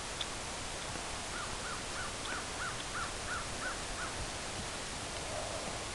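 A bird calls a quick, even series of about nine short rise-and-fall notes, about three a second, starting a little over a second in, over a steady hiss.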